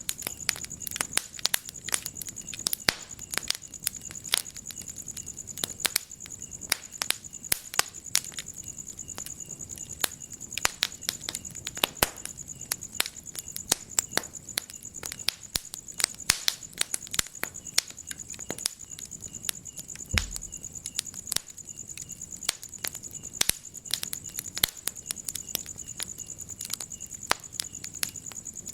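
Wood fire crackling in a fireplace: frequent sharp pops and snaps, irregular and close together, over a low hiss. A steady high-pitched trill runs underneath, and there is one low thud about twenty seconds in.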